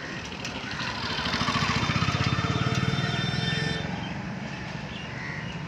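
A motor vehicle engine passing by. It gets louder about a second in and fades away about four seconds in.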